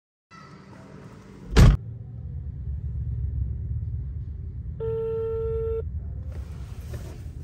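A mobile phone's outgoing call ringing out on speaker: one ring-back tone about a second long, near five seconds in, over a low steady rumble inside a car. Earlier, a car door shuts with a thump.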